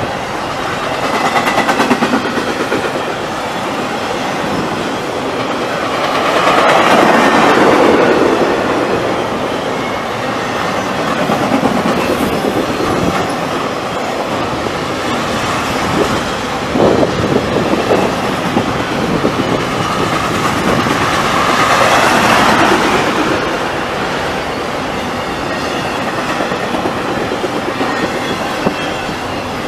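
Intermodal freight train rolling past, its steel wheels clattering on the rails in a steady rumble that swells louder three times as cars go by, with a run of sharp clicks a little past halfway.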